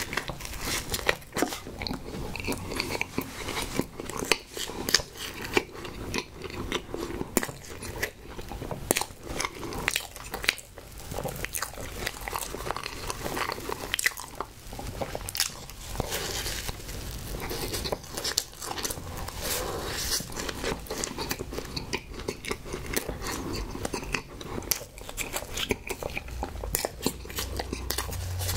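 Close-miked chewing of a Twinkie Snowball, a soft chocolate cake with marshmallow cream under a pink coconut coating, with bites into it. It comes as a constant, irregular run of quick mouth clicks.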